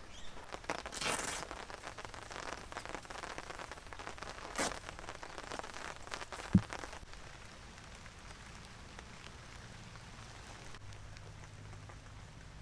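Rain pattering on a surface, with scattered taps and rustling over the first half and one sharp knock, the loudest sound, about six and a half seconds in. The second half is a quieter, steady rain hiss with a faint low hum near the end.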